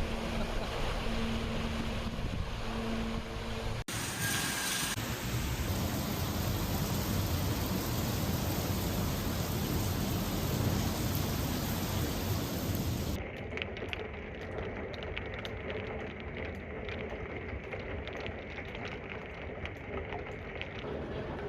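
Steady noise of heavy rain across three spliced clips. Faint steady hum lines run through the first few seconds, and many small scattered ticks fill the last part.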